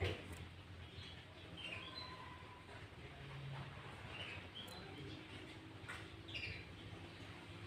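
Sooty-headed bulbul giving scattered short chirps and whistled notes, a few every couple of seconds, with a sharp click right at the start.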